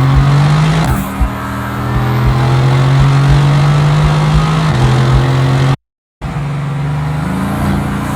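Mercedes-AMG GT S 4.0-litre twin-turbo V8 running at steady revs with a constant drone, dropping in pitch about five seconds in. The sound cuts out completely for a moment, then the engine returns at lower revs and rises slightly near the end.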